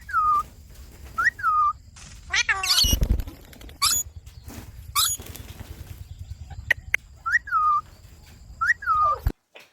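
Pet Indian ringneck parakeet giving repeated short whistles, each rising quickly and then falling, with a harsher squawk a little before three seconds in.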